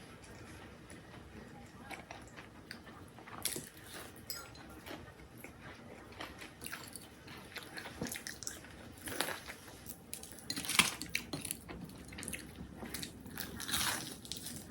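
A person biting and chewing crunchy food close to the microphone, with scattered crackles and a few louder crunches.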